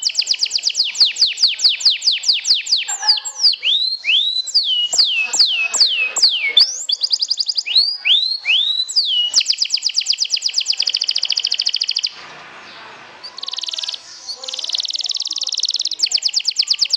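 Domestic canary singing: fast repeated high trills, then a run of whistled notes sliding downward, then more fast trills. After a short break about twelve seconds in, a buzzier trill follows.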